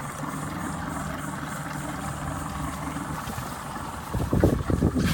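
A boat's 175-horsepower outboard motor running steadily at low speed with an even hum. A few louder low thumps or gusts come near the end.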